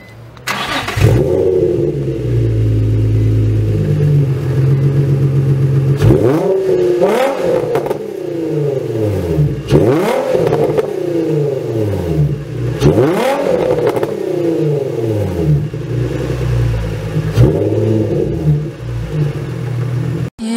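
Nissan 350Z's VQ35DE V6 through Motordyne ART pipes and a Shockwave TDX V2 stainless exhaust: it comes in about a second in, idles, and is revved four times, each rev rising and falling back to idle, the last one smaller.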